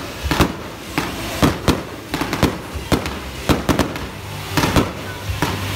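Aerial fireworks bursting overhead: a rapid, irregular series of bangs and pops, about three or four a second.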